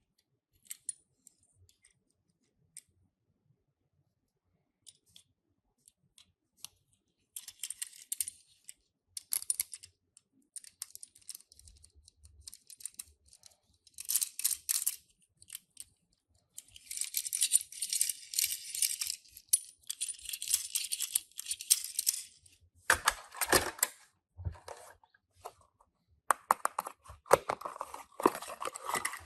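Hands handling Tomica die-cast toy cars and their packaging: a few light clicks, then bursts of crinkling and rustling with small knocks, and a louder clatter about three-quarters of the way through.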